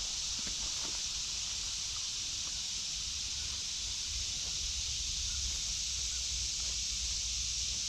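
Steady high-pitched drone of a cicada chorus, unbroken, with a low rumble and a few faint ticks underneath.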